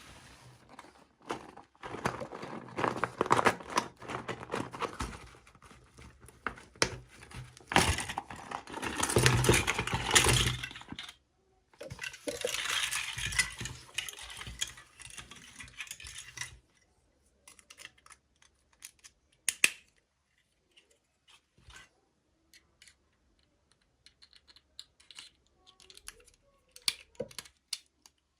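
Plastic packaging crinkling and rustling as a toy is unwrapped, loudest about halfway through, then giving way to scattered small clicks and taps as small plastic pieces are handled.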